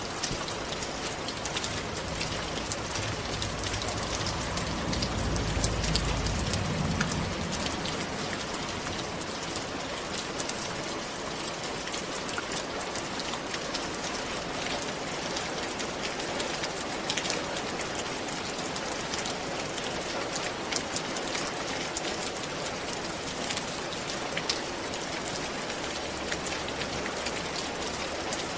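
Steady rain falling on a roof, with many separate drops ticking through the even hiss. A low rumble swells and fades a few seconds in.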